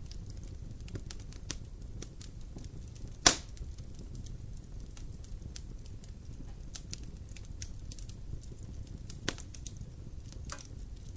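Wood fire crackling in a fireplace: a steady low rumble with scattered small crackles, a sharp loud pop about three seconds in and smaller pops near the end.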